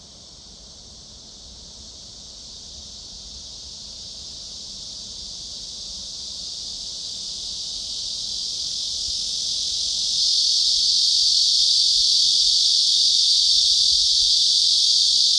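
A steady, high-pitched insect chorus that grows gradually louder, stepping up about two-thirds of the way through.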